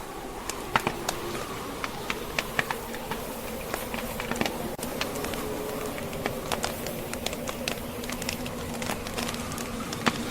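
Log fire crackling with many sharp irregular pops and snaps, over the steady blowing and faint howl of a blizzard wind.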